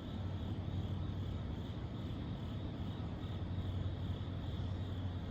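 Slow-moving Norfolk Southern freight train, a steady low rumble.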